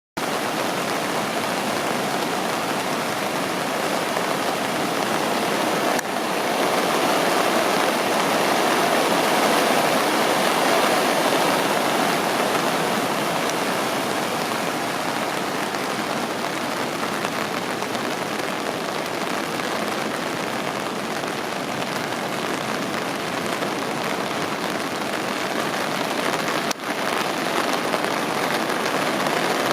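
Steady rushing water of the flood-swollen Kamo River running high and fast after typhoon rains, dipping briefly about six seconds in and again near the end.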